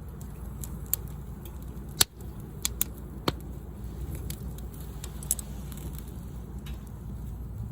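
Wood campfire crackling, with scattered sharp pops and clicks over a steady low rumble; the loudest pops come about two and three seconds in.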